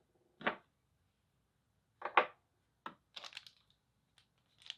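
A handful of short, separate clicks and knocks from unboxed tool parts being picked up and set down, two of them close together about two seconds in and a small rattle soon after.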